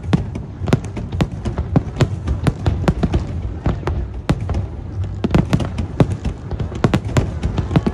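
Aerial fireworks shells bursting in rapid succession: a dense, uneven string of sharp bangs, several a second, over a steady low rumble.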